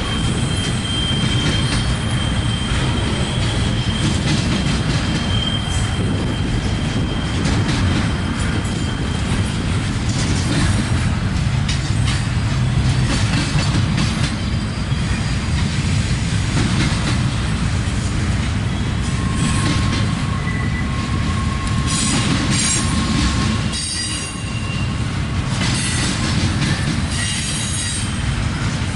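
Double-stack intermodal container train rolling past, its wheels on the rail making a steady low rumble. Thin wheel squeals come and go, a higher one in the first few seconds and a lower one later, with scattered clicks and squeaks toward the end.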